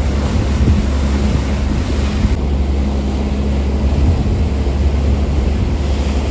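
Steady low drone of a harbour ferry's engines, with rushing water and wind noise on the microphone.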